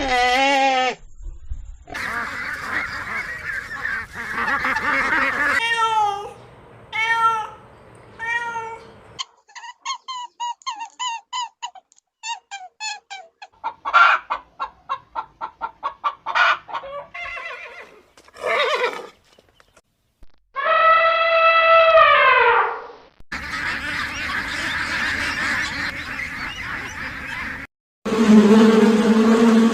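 A run of different animal calls spliced from separate recordings, changing abruptly every few seconds. Some are repeated short calls, one is a rapid series of clicks, and one is a single long call about two seconds long.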